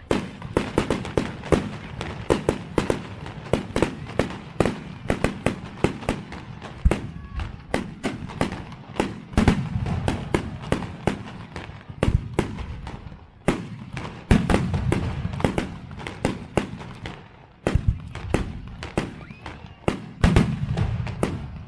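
Fireworks display: rapid, irregular bangs and crackles of exploding shells, several a second, with short lulls of a few tenths of a second between volleys.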